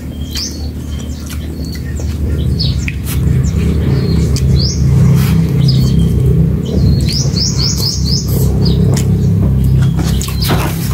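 Small birds chirping again and again in short high notes, with a quick run of about five rising chirps past the middle. Under them is a steady low droning hum that gets louder about two seconds in.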